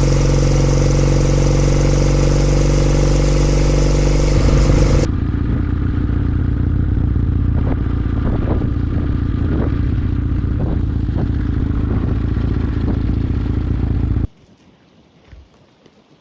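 Kawasaki W800 air-cooled parallel-twin motorcycle engine running through aftermarket Yamato mufflers, with a steady exhaust note. About five seconds in the sound changes abruptly to a lower, rougher running note with a few light ticks. It cuts off suddenly about fourteen seconds in.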